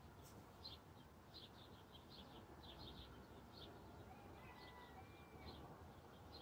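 Faint bird chirping at dawn: short high notes repeated irregularly, about one or two a second, over quiet background hiss.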